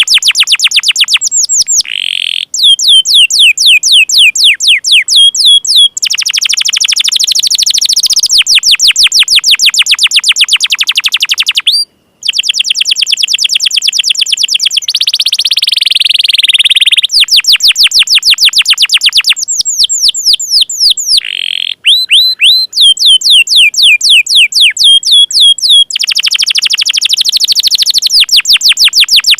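Canary singing loud, fast trills of rapidly repeated sweeping notes, switching from one trill pattern to the next every second or few, with a brief break about twelve seconds in.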